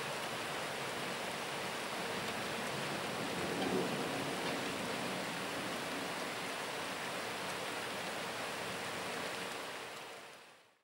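Rain pouring steadily in a thunderstorm, an even hiss with a brief swell about three and a half seconds in, fading out near the end.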